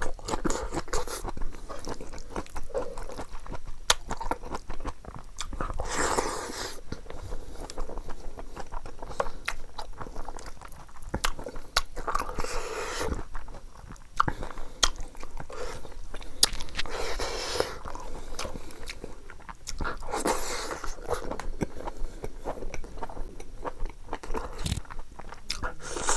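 Close-up eating sounds: crunching bites into raw green chillies and steady chewing of rice and curry, with many sharp wet clicks from the mouth.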